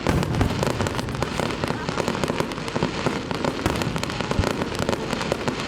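Aerial fireworks going off in a dense, rapid barrage, with overlapping bangs and crackle and no pause between shots.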